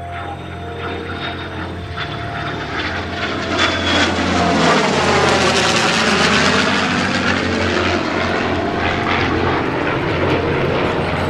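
A P-51D Mustang's Merlin V-12 and propeller and an F-22 Raptor's jet engines flying past together in formation. The sound swells to its loudest about halfway through, with the pitch sweeping as they pass, then eases off slightly.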